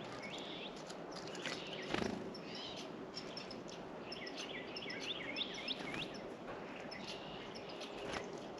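Small songbirds chirping at a bird feeder: many short, quick notes, with a run of rising chirps in the middle, over a steady outdoor hiss. A few sharp knocks sound among them, the loudest about two seconds in.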